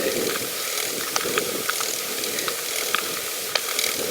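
Pedal bicycle rolling along a path: irregular mechanical clicks and rattles from the bike over a steady hiss of tyre and wind noise.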